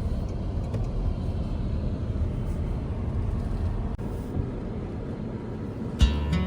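Steady low road and engine rumble of a car being driven. Acoustic guitar music comes in near the end.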